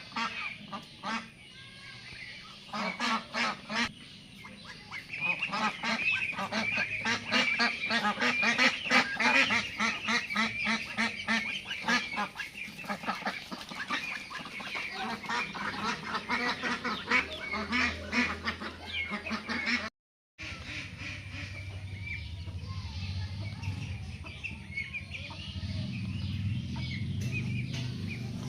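Domestic geese feeding: a dense run of quick clicks as their bills pick at the food, mixed with honking calls. The sound cuts out for a moment about two-thirds of the way through, then a low steady rumble carries on under quieter geese.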